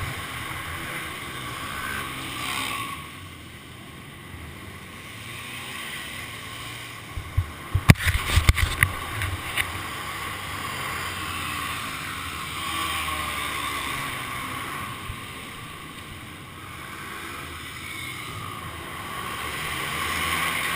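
Motorcycle running under wind noise on a helmet-mounted camera's microphone, with its engine note rising and falling. A quick cluster of sharp knocks and clatter comes about halfway through.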